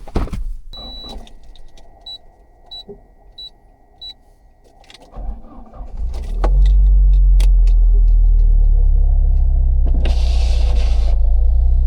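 A car's warning chime beeps about five times at an even pace. Then the Citroën XM's 2.0-litre turbo four-cylinder engine is cranked and starts about six seconds in, settling into a steady idle, with a short hiss near the end.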